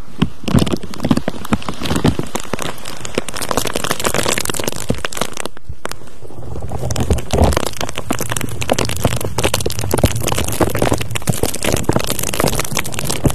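Dense, irregular crackling and scratching made close against the microphone as an ASMR trigger for "sucking out bad energy", easing off briefly about halfway through.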